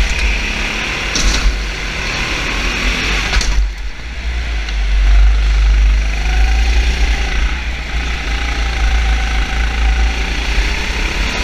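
Car engines running, a steady mix of engine noise over a heavy low rumble, with pitch drifting up and down a little.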